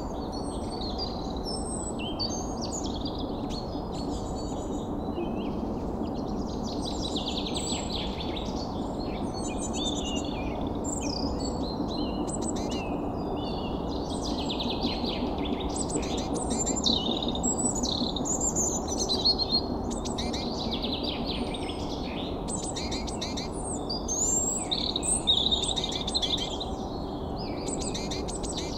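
Many birds chirping and singing at once, short calls and trills overlapping without a break, over a steady low background noise.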